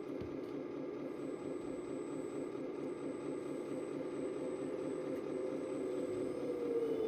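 Radio-controlled scale model tractor or truck running, a steady hum whose pitch wavers slightly near the end.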